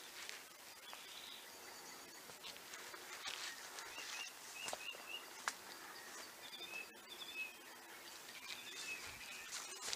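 Quiet outdoor ambience at a lake with faint, short bird chirps scattered through, some in quick clusters of two or three. There are a couple of faint clicks.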